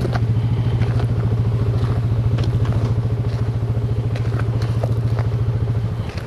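Quad (ATV) engine idling steadily with an even pulsing beat, shut off near the end.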